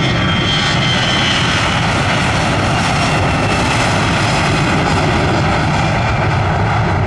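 Jet airliner passing close by, its engines giving a loud, steady roar with a high whine that fades over the first couple of seconds.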